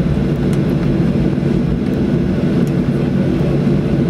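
Boeing 737-800 jet engines heard from inside the passenger cabin: a steady, loud drone with a low hum, holding even throughout.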